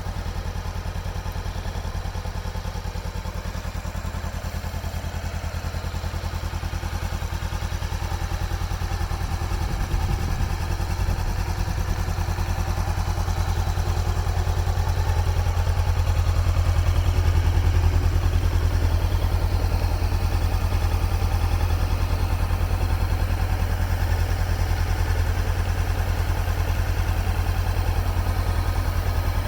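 Motorcycle engine running steadily at idle, a low rapid pulse that grows somewhat louder partway through.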